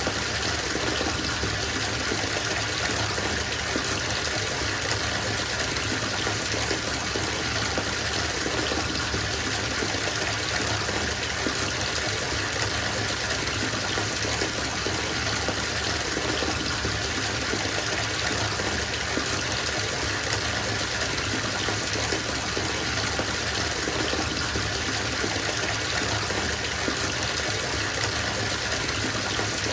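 Bathtub filling from the tap: a steady gush of running water pouring into the tub.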